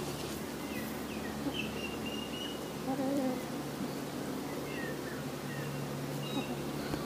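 Birds chirping in short high calls, with one lower call about three seconds in, over a steady low hum.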